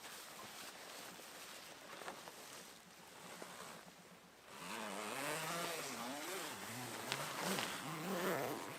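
A small engine starting about halfway in, revving up and down so that its pitch rises and falls again and again, over a steady hiss.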